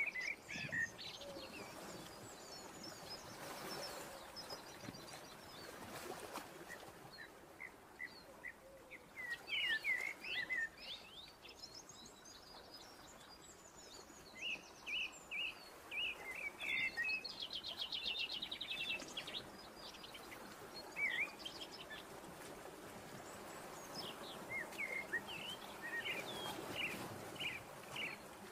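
Small birds chirping and twittering in scattered bursts of short calls, with a fast trill about two-thirds of the way through, over a faint steady background hiss.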